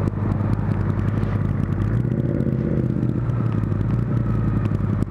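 2010 Honda CBR1000RR's inline-four engine running steadily at low revs, with a slight rise in engine speed about two seconds in.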